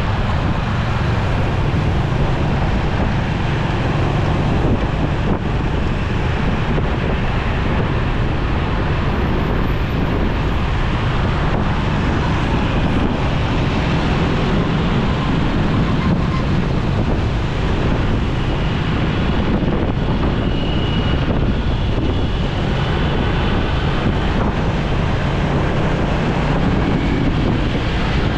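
Wind buffeting the microphone of a moving motorcycle, with the motorcycle's engine and road traffic beneath it, all loud and steady.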